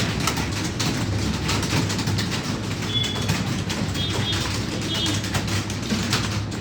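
Many computer keyboards being typed on at once: a dense, irregular clatter of keystrokes over a steady low hum. A few short high chirps sound in the middle.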